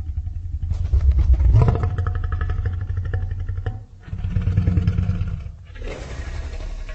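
Creature sound effect for a made-up dinosaur: deep, rumbling growl-roars with a rough, fast-pulsing pitched cry on top, in three calls, the first and loudest starting about a second in.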